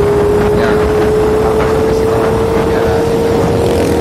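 2006 Yamaha Jupiter MX 135 motorcycle under way, a steady whine slowly rising in pitch over a dense low rumble.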